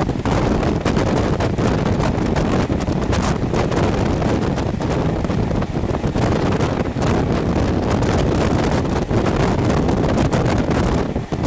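Strong wind buffeting a microphone held out of a moving passenger train's window, over the steady rumble of the train running along the track.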